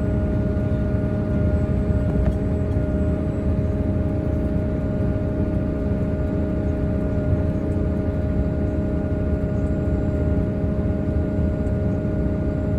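Grimme Varitron 270 self-propelled potato harvester running, heard from inside its cab: a steady engine drone with a steady whine over it, unchanging throughout, while the harvester's tank is unloading potatoes into a trailer.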